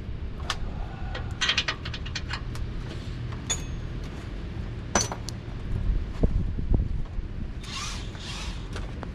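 Hand tools clinking and knocking on metal: irregular sharp clicks, a quick cluster about a second and a half in and a few duller thuds later, as nuts come off the rear axle's U-bolts.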